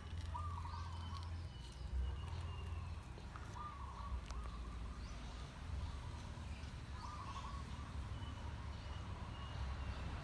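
A bird calling in the garden, the same short call repeated about every three and a half seconds, with fainter chirps from other birds over a low steady rumble.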